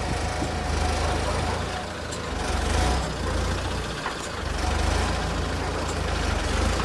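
Heavy truck engine running with a steady low rumble that rises and falls a little in level.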